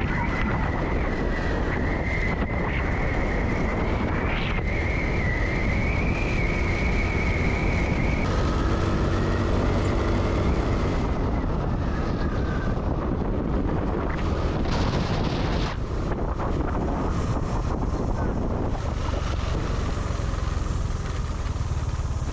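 Motorbike on the move: the engine is running under steady wind and road noise, with a wavering whine for the first several seconds.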